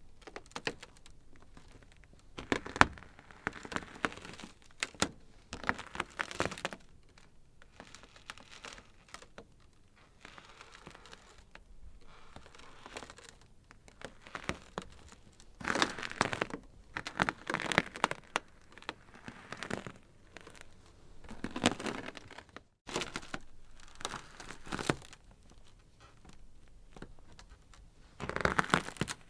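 Ice crackling and snapping in irregular flurries of sharp clicks, with quieter stretches between them.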